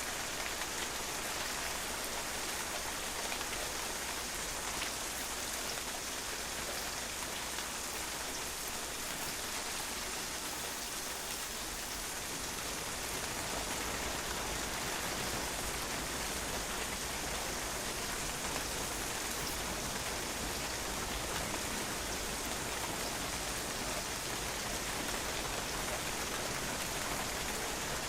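Steady rain falling and pattering on a patio, an even hiss of drops.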